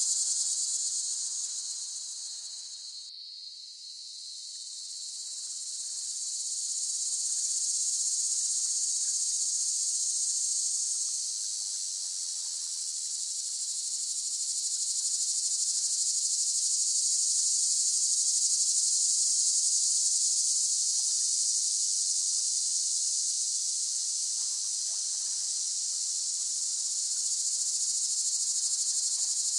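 Chorus of cicadas buzzing in a steady, high-pitched drone. It dips about three seconds in and swells back up.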